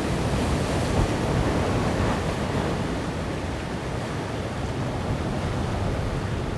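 Pacific surf breaking and washing over shoreline rocks: a loud, steady rush of water, strongest in the first two seconds and easing a little after, with wind on the microphone.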